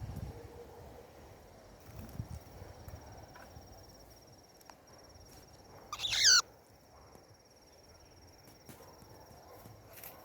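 A cockatiel gives one short, loud warbling call about six seconds in, over faint wind noise and a steady high insect trill.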